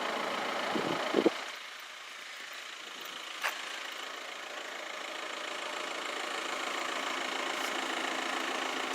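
A motor vehicle engine idling steadily, with a couple of short knocks about a second in and a single sharp click at about three and a half seconds.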